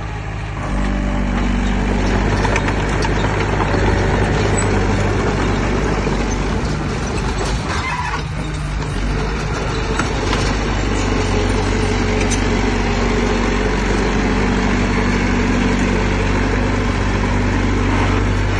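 Heavy diesel engine running steadily at work, with a few sharp metallic knocks and clanks scattered through it.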